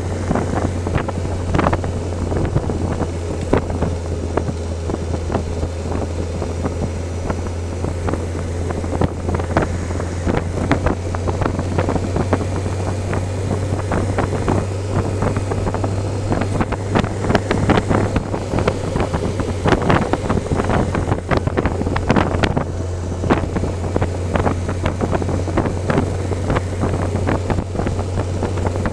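Motorcycle riding at a steady speed: a constant low engine drone under heavy wind buffeting and crackle on the microphone.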